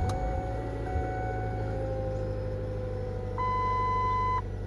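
2009 Ford Fusion engine running just after a cold start, idling fast with a steady whine that slowly drops in pitch as the idle settles. About three and a half seconds in, the car's warning chime sounds once for about a second.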